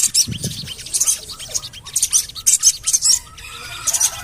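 Sogon bird calling: clusters of high, sharp 'cuit' chirps repeated about once a second, with lower quick chattering notes between them. This is a lure call, played to get other sogon birds to sing.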